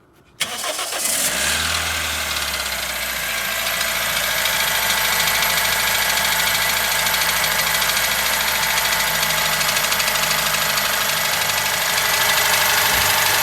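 Toyota 2SZ four-cylinder petrol engine starting from cold: it catches suddenly about half a second in and settles into a steady idle with a knock from inside the engine, which the owner notes is stronger while the engine is cold.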